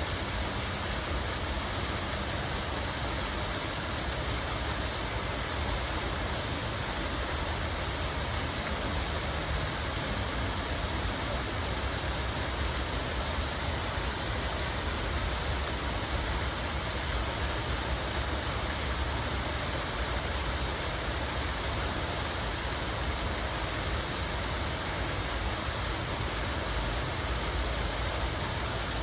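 Steady rush of running water, an even hiss with a low rumble underneath that does not change.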